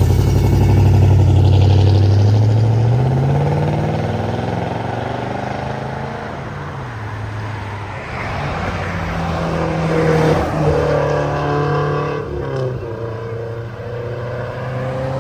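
A car engine starts loud and accelerates away, its note rising over the first few seconds and then fading. A second car's engine comes up about halfway through and runs steadily as it passes.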